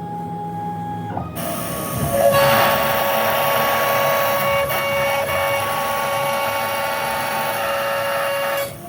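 Small power tool running steadily: a motor whine over a hiss, starting about a second in, getting louder a second later, and cutting off near the end.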